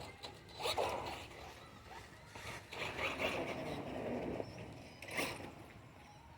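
Radio-controlled monster truck driving over rough ground: a rasping whir of motor and tyres in three bursts, a short one about a second in, a longer one in the middle and a brief one near the end.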